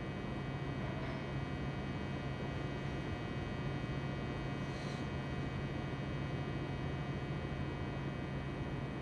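A steady low-pitched buzz, rich in overtones.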